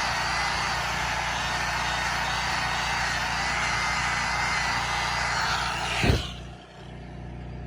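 Stick-welding arc from a 3/32-inch electrode, a steady loud crackling sizzle, until the arc is broken about six seconds in with a short sharp pop. A quieter steady hum remains after it.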